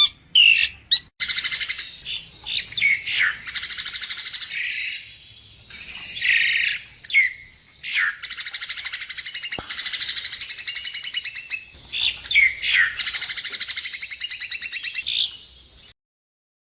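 Javan myna (jalak kebo) calling: long runs of harsh, fast rattling chatter mixed with short sweeping whistles and squeaks. It cuts off near the end.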